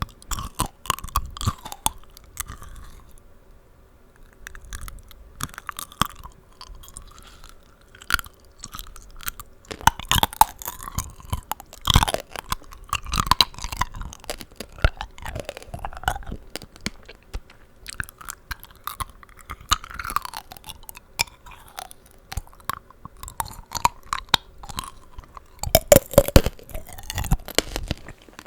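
Close-up chewing of tanghulu, sugar-glazed strawberries and green grapes: the hard candy shell cracking and crunching between the teeth with wet, juicy smacking from the fruit, with a few louder crunches along the way.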